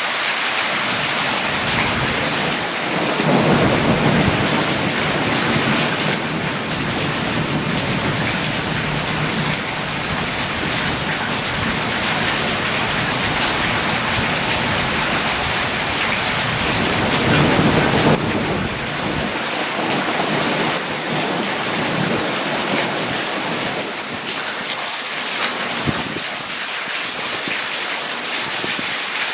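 Steady heavy rain with rolling thunder. The thunder starts rumbling about three seconds in, swells again just past halfway, then dies away, leaving the rain alone.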